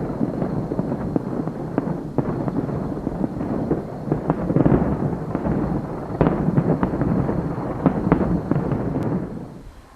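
Fireworks going off in a rapid barrage: a continuous rumble of booms with many sharp crackles, dying away near the end.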